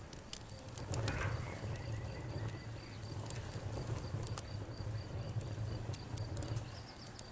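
Campfire crackling with scattered sharp pops over a low steady rumble, while a cricket chirps in a high, evenly pulsing trill.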